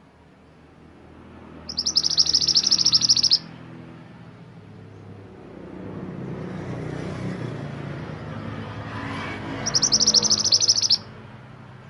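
Mantenan gunung songbird giving two rapid, high-pitched trilled phrases, each about a second and a half long, several seconds apart, over a faint low rumble.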